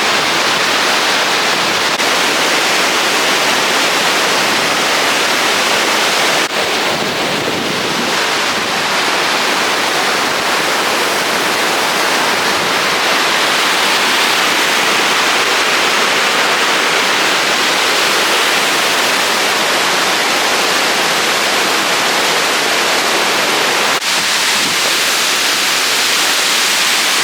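Loud, steady rushing water, like a fast river or waterfall close by. Its tone shifts abruptly twice, about six seconds in and near the end.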